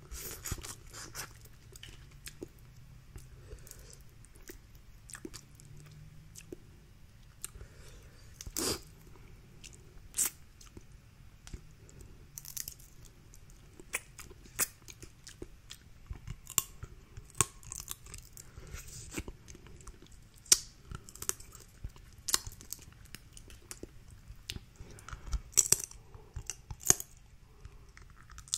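Close-miked eating of a Cajun seafood boil: chewing, with many sharp cracks and snaps of shells being broken and peeled, coming more often and louder in the second half.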